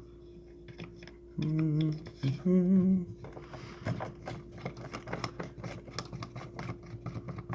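A man hums briefly, then a fast, irregular run of light clicks and taps as small metal parts are worked on a flip-key repair station while roll pins are pressed out of flip keys. A faint steady hum sits underneath.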